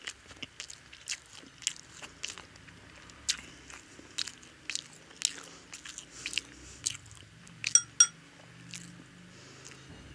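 Close-up chewing of egg-battered toast: irregular sharp, wet mouth clicks. Two short ringing clinks about eight seconds in.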